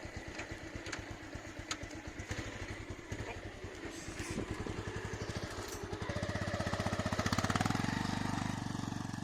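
Motorcycle engine running with a rapid, even firing pulse, growing louder about six seconds in and then easing off near the end.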